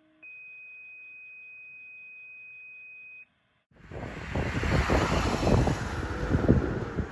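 The long second tone of a two-tone fire dispatch page: one steady high beep held for about three seconds, then cut off. After a brief gap, loud gusting wind noise on the microphone with a low rumble of vehicles sets in.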